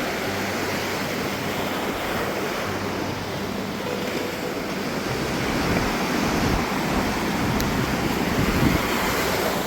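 Sea surf: waves breaking and washing ashore in a steady rush, swelling a little in the second half, with wind buffeting the microphone.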